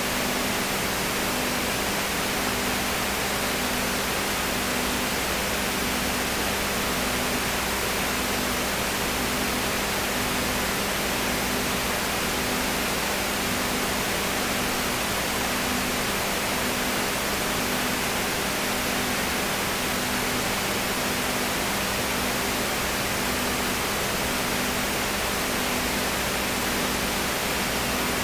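Steady hiss with a low hum, and a slightly higher hum that pulses on and off about once a second.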